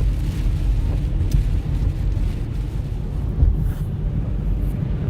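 Steady low rumble of a car being driven, road and engine noise heard from inside the cabin, with a few faint clicks.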